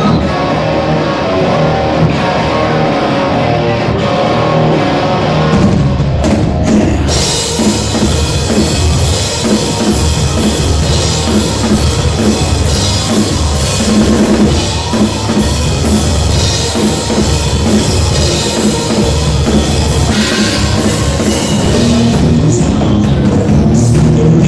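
Live rock band playing an instrumental passage, led by a full drum kit with electric guitar. About seven seconds in, the drums open up with crashing cymbals and the band plays on at full volume.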